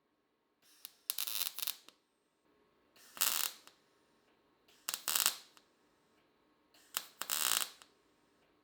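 MIG welder laying short tack or stitch welds on body panel steel: four half-second spells of welding noise, about two seconds apart, each starting with a click.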